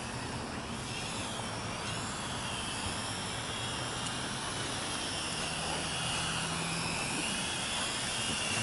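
Small quadcopter drone's propellers whining in flight, the pitch wavering up and down as it is pushed around by gusty wind, over a steady rush of wind noise.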